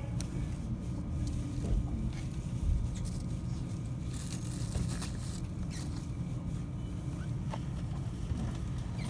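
Running noise heard inside a 521-series electric train car: a steady low rumble with scattered light clicks.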